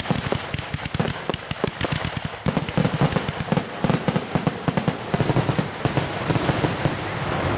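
Aerial fireworks going off in a rapid, dense barrage: many sharp bangs a second, overlapping one another.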